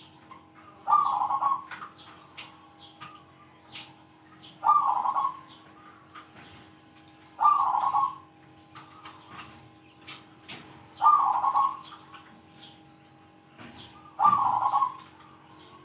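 Zebra dove (perkutut) cooing: five short coo phrases, each under a second, repeated every three to four seconds. Faint sharp ticks and a low steady hum run between them.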